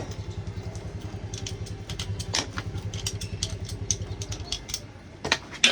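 An engine idling with a rapid, even low pulse that fades out near the end, with scattered sharp metallic clicks and taps over it.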